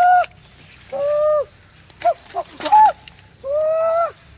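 An animal calling over and over: longer arched calls of about half a second each, at the start, about a second in and near the end, where the call is longer, with a few short quick notes between them.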